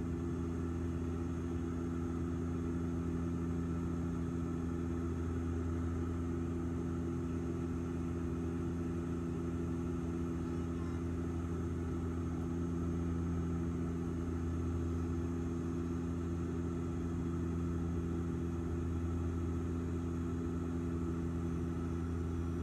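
Airliner engines droning steadily as heard inside the passenger cabin in flight: an even low hum with several steady low tones above it and a faint high whine.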